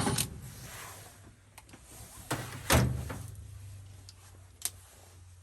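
Two thumps about half a second apart, a couple of seconds in, then a single sharp click near the end, with a low steady hum underneath.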